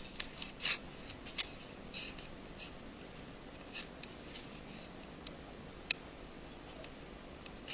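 Small screwdriver clicking and scraping on a tiny screw and the vibrating motor's metal bracket in an iPhone 5 casing: a dozen or so light, irregular high clicks, two of them sharper.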